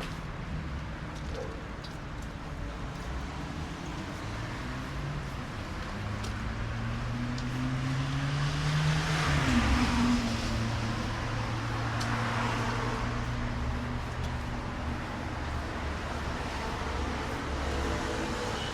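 Cars passing on a city street, probably wet after rain: engine hum grows louder and higher until the nearest car goes by about halfway through, with a drop in pitch and a swell of tyre hiss, followed by a second car's hiss a couple of seconds later.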